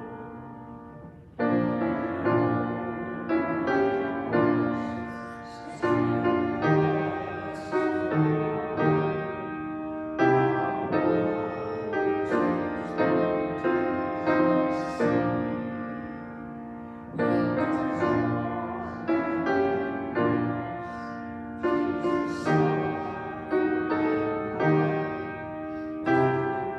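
Instrumental piano music: a slow, hymn-like piece of struck chords, each one fading after it is played.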